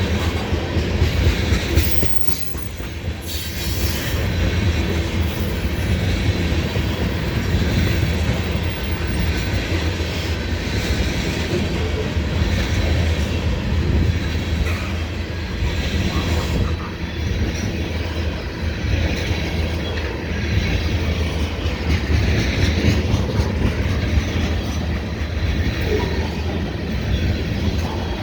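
A loaded ethanol unit train's tank cars rolling steadily past, steel wheels rumbling and clacking over the rail, with some wheel squeal.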